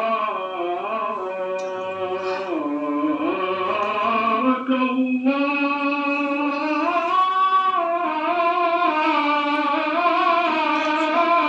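Solo male voice chanting a long, ornamented melismatic line of an Iraqi-style manqaba (Prophetic praise ode), with no words breaking through. The pitch bends and wavers on held notes, with a short breath about five seconds in.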